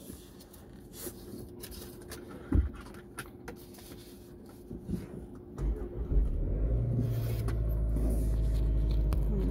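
A few clicks and knocks inside a car, one louder knock about two and a half seconds in; then, near six seconds in, the car's engine cranks and starts and settles into a steady idle.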